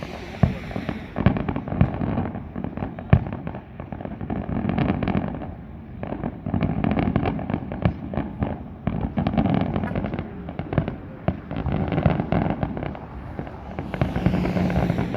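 Fireworks display going off without a break: many sharp cracks and pops in quick succession over a continuous low rumble.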